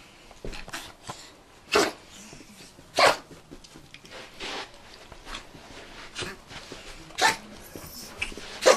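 A Pomeranian barking in single short, sharp barks: four loud ones spread out, with a few fainter sounds in between.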